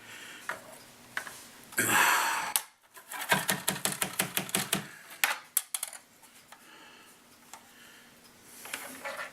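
Plastic parts of a Roomba 650's dustbin filter being handled: a short scrape about two seconds in, then a rapid run of small clicks, about ten a second, lasting under two seconds, then a few faint taps.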